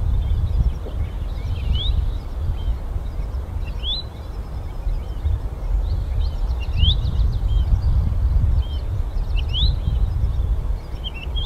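A bird calling outdoors: short rising chirps repeated about every two to three seconds, with fainter high twitters between them, over a steady low rumble.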